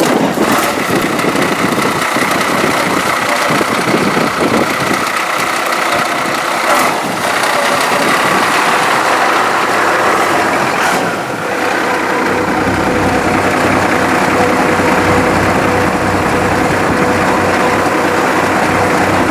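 Engine idling steadily and running quietly. About twelve seconds in, a deeper low rumble joins it.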